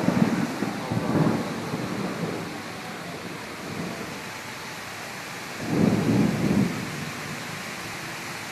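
Rainstorm in strong wind: a steady hiss of rain, with two loud, low gusts, one at the start and one about six seconds in.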